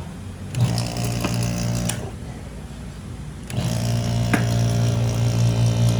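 Hermetic fridge compressor's electric motor humming as it is switched on to run. It starts about half a second in, cuts out around two seconds, starts again about a second and a half later and keeps running, with a couple of light knocks over the hum.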